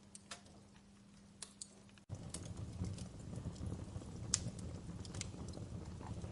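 Wood fire crackling with sharp pops. It is sparse and quiet for about the first two seconds, then changes abruptly to a louder low rumble of flames with denser crackling and one stronger pop near the middle.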